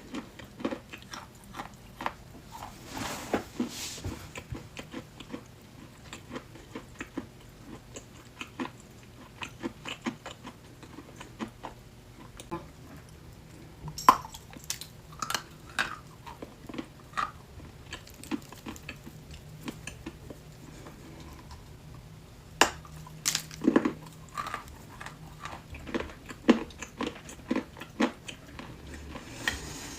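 Close-miked chewing and crunching of chalk: a steady run of small crackles and bites, with a few louder, sharper crunches around the middle and later on.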